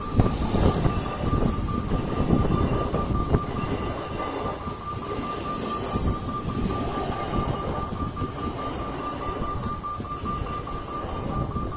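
Local electric passenger train running past close by: a steady rumble of coaches and wheels on the rails, with a few sharp knocks as wheels cross rail joints.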